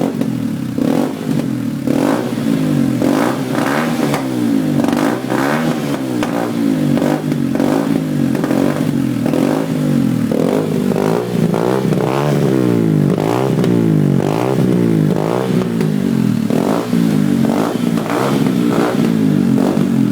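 Honda dirt bike engine with a newly fitted muffler, revved in quick blips over and over, its pitch rising and falling each time.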